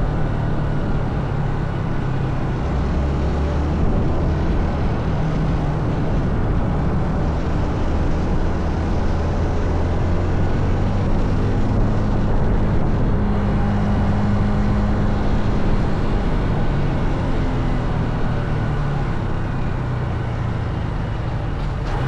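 Honda CT125 motorcycle's single-cylinder engine running steadily while riding, its note rising and falling a little with speed, under a constant rush of wind noise.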